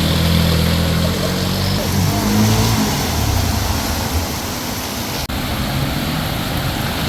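Heavy rain pouring, an even hiss, with a motor vehicle's engine running underneath, plainest in the first three seconds.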